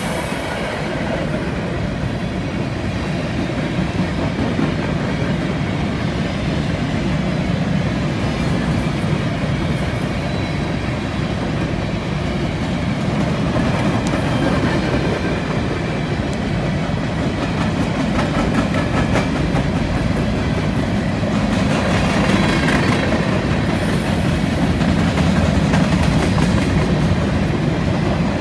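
Covered hopper cars of a freight train rolling past on steel wheels: a steady rumble with clickety-clack of wheels over the rail joints, clearest in the second half. A faint high-pitched squeal of wheel flanges on the curve comes and goes.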